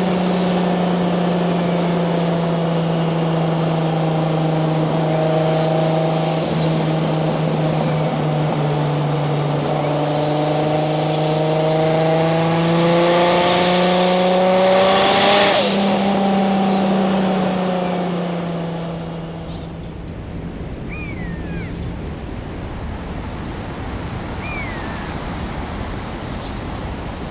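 Turbocharged 1JZ VVTi straight-six running steadily under way. In the middle a turbo whistle climbs higher for a few seconds with the engine note, then cuts off sharply as the throttle lifts. Near the end the engine sound fades away, leaving a steady rushing noise.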